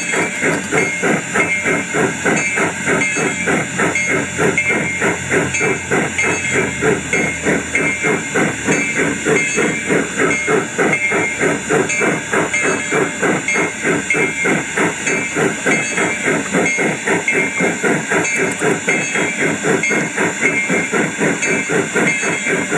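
Garden-railway model steam locomotive running steadily, with a fast, even chuffing rhythm.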